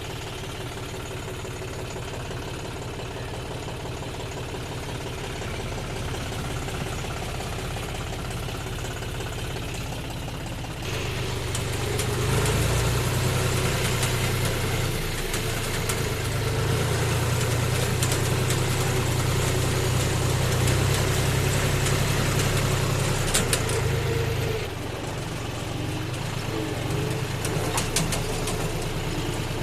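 John Deere tractor's diesel engine running steadily. It grows louder about eleven seconds in and drops back a little near the end, as if working harder for a while with a full trolley load behind it.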